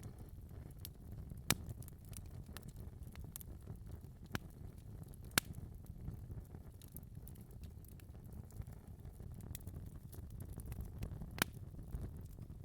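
Wood fire in a fireplace crackling: a low steady rumble of flames with scattered sharp pops, a few of them louder.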